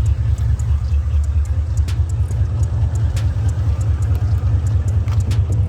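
Car engine idling, a steady low rumble, with a few light clicks and knocks over it.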